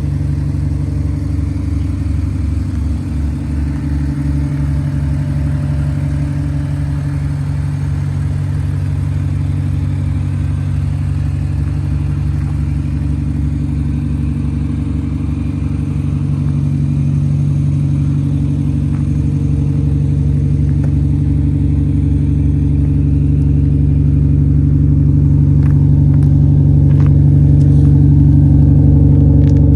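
Audi SQ5's twin-turbo V6 engine running steadily at idle, growing a little louder in the second half, with a few faint clicks near the end.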